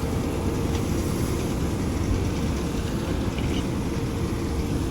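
Fastrac tractor and round baler running steadily: an even low drone with a faint steady hum and no distinct knocks.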